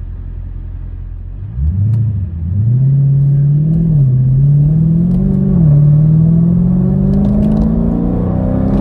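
A 6.4-litre (392) naturally aspirated Hemi V8 pulls away from low revs, heard from inside the car's cabin. The engine note climbs, drops back at upshifts about two, four and five and a half seconds in, then rises steadily again.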